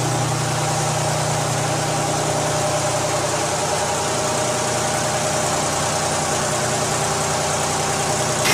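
Detroit Diesel V12 engine idling steadily at an even speed.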